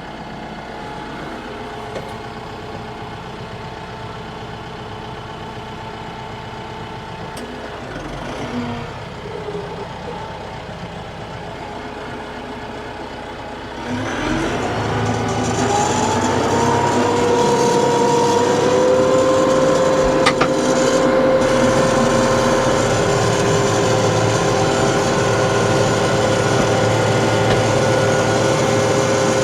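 TYM T654 tractor's diesel engine running at low speed; about halfway through it gets louder as the PTO-driven flail mower spins up, a rising whine that settles into a steady tone with the mower running at working speed.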